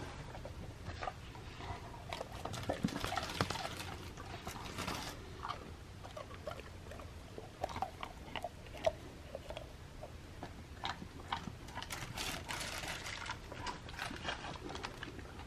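Golden retriever puppy chewing beef jerky dog treats: a long run of small wet clicks and crunches.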